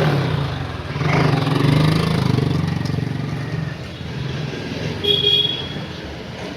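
Motor vehicle engine running, loudest in the first few seconds and then fading. A short high beep like a horn comes about five seconds in.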